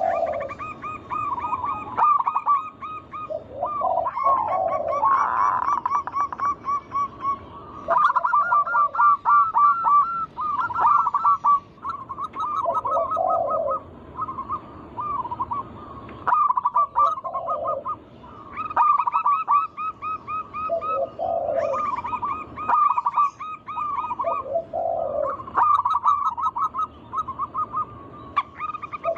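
Zebra doves (perkutut) cooing. A low coo recurs about every four seconds over a dense, continuous run of quick, warbling higher notes. It is a lure recording meant to stir a caged dove into singing.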